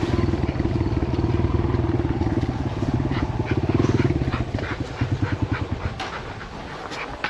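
Kawasaki KLX140L dirt bike's small four-stroke single-cylinder engine running steadily. About five seconds in, it turns uneven and pulses, then fades out as it is shut off.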